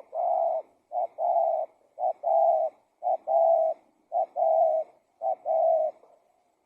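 Spotted dove (tekukur) cooing: six repeated phrases about a second apart, each a short clipped coo followed by a longer held coo.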